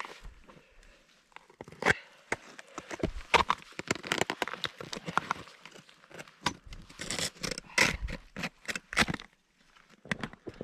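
Crampon-shod boots crunching and scraping on icy snow in an irregular run of footsteps, with some sharper crunches where spikes bite in.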